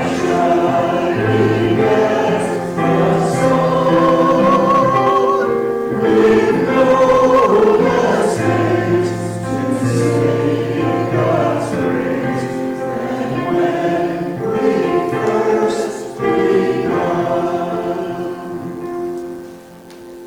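Group of voices singing a hymn together with piano accompaniment, the singing tapering off near the end as the verse finishes.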